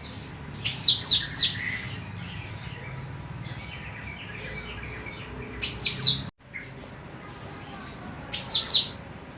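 Female cucak rante emas singing three loud bursts of three quick, high, downward-slurred chirps, with softer scattered chirps between them over a low steady hum. The sound drops out briefly just after the middle burst.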